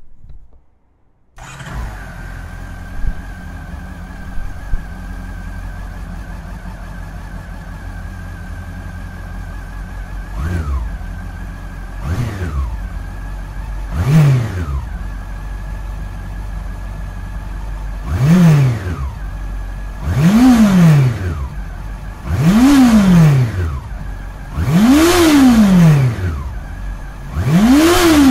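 Honda CB400 Super Four Revo (NC42) inline-four engine, through its stock muffler, starting up about a second in and idling steadily. From about ten seconds in it is revved eight times: three short blips, then five longer, higher revs that each rise and fall back to idle.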